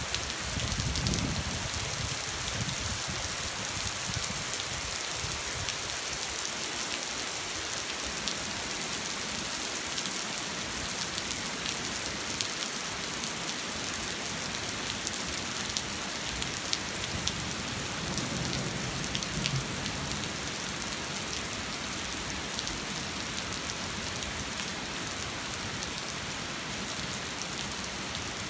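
Steady rain falling, with scattered individual drops ticking through the hiss. A brief low rumble comes about a second in and again about two-thirds of the way through.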